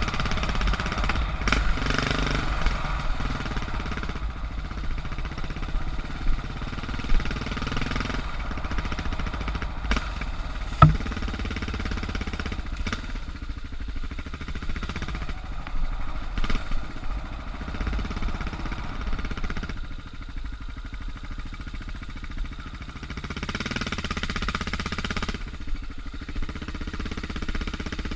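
Suzuki DR650's single-cylinder four-stroke engine running under a trail rider, its level rising and falling with the throttle and easing off for a few seconds about two thirds of the way through. A single sharp knock is heard a little over a third of the way in.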